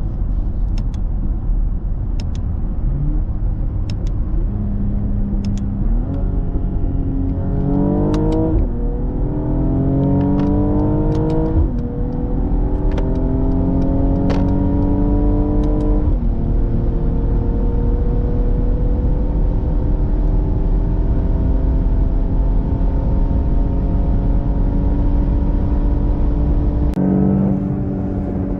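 Mercedes-AMG GLE 53's 3.0-litre inline-six accelerating hard through the 9-speed automatic, heard from inside the cabin over steady road rumble. The engine note climbs, drops at two quick upshifts, then pulls in one long slow rise before falling away sharply near the end.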